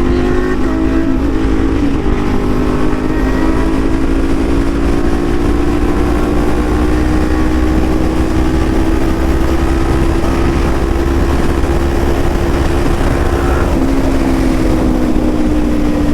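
Small-displacement motorcycle engine running at a steady cruise, its pitch creeping slowly up and then dropping a little about fourteen seconds in, over a steady low rumble of wind.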